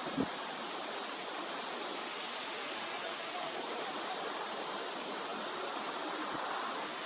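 Steady rush of flowing water, an even hiss without pauses, with one brief low thump just after the start.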